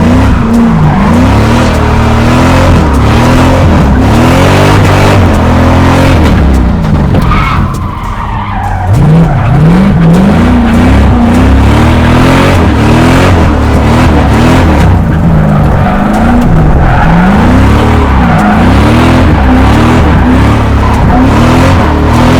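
An LS V8 in a Nissan S14 drift car, revved hard with its pitch swinging up and down again and again, over the noise of the tyres skidding. About eight seconds in it briefly lets off, then comes back on hard about a second later.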